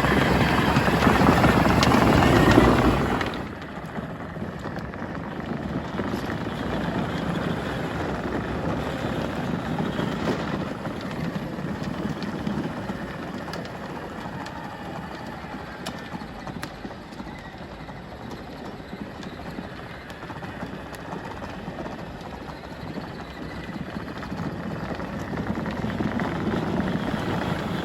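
A truck running on the move, a steady rumble with road noise. It is louder for about the first three seconds, then settles lower.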